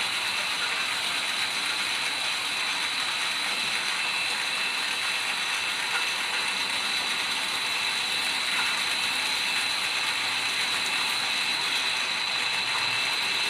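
Lathe machine running steadily, a dense mechanical rattle with a constant high whine.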